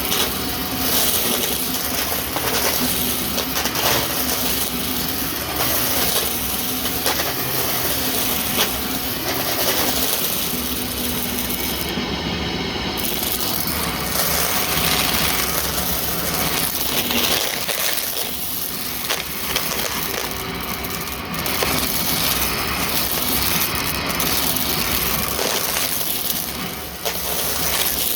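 Vacuum cleaner running with a clogged brushroll, its motor humming steadily under a constant rush of air, with many small clicks and rattles as debris is drawn in.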